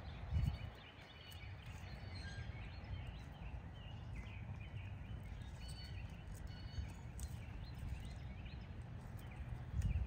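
Scattered short bird chirps and calls over a low steady rumble, with a brief low bump about half a second in and another near the end.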